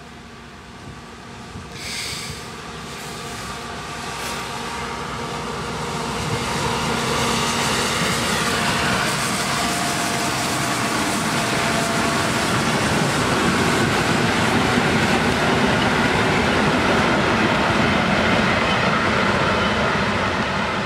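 Museum-railway diesel locomotive hauling old passenger coaches, approaching and running past, growing louder over the first several seconds into the steady running noise of engine and wheels on the rails. A short high-pitched tone sounds about two seconds in, with a fainter one near four seconds.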